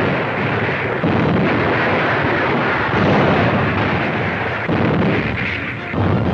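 Heavy gunfire and explosions on a 1940s newsreel soundtrack: a dense, rumbling din with a fresh blast about every one to two seconds, about five in all.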